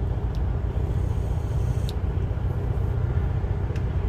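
Steady low rumble of a semi truck heard from inside its cab, with a few faint clicks.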